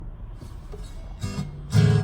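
Acoustic guitar being strummed, a chord a little over a second in and a louder one near the end, as the intro to a song.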